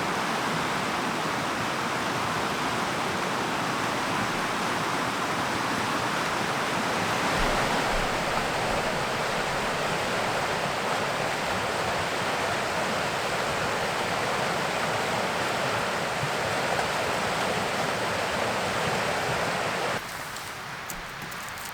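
Steady rush of flowing river water, with no pitch or rhythm, which cuts off abruptly near the end.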